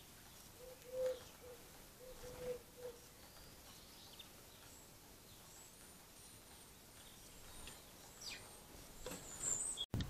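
Faint wild birds calling: a run of short, low notes in the first three seconds, then thin high chirps, with a louder high call just before the end. A few soft taps come in between.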